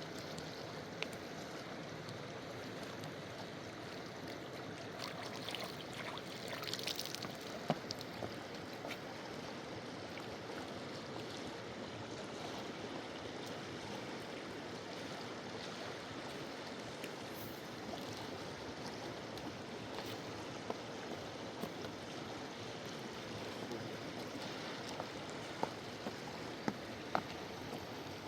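Full-flowing mountain river rushing steadily, with a few scattered sharp clicks over it.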